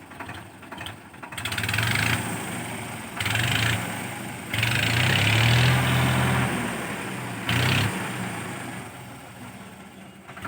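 Swaraj tractor's diesel engine revving in four bursts of throttle from a lower running speed, the longest and loudest about halfway through, then settling back toward idle.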